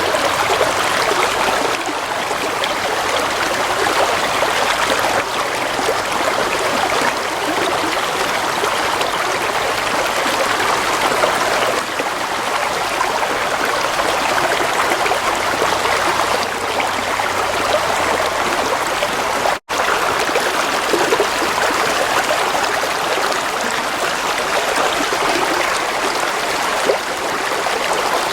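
Gently flowing water, a steady trickling, babbling stream. The sound cuts out for a split second about two-thirds of the way through, then resumes unchanged.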